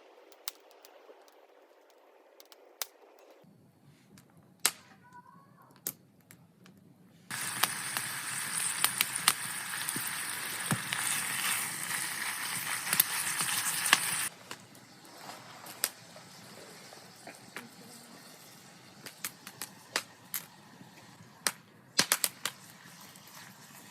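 Wood campfire crackling, with sharp irregular pops. About seven seconds in, a loud steady hiss starts suddenly and cuts off just as suddenly some seven seconds later.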